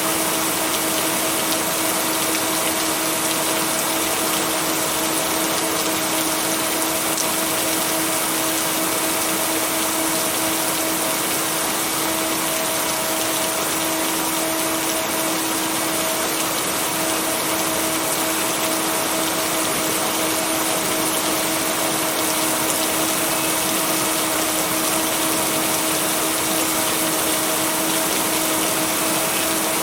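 Steady, even rain hiss with no thunder, with a constant low two-note hum running through it: the blended binaural-beat tones.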